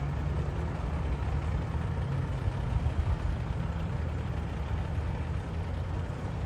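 Engine running with a steady low rumble.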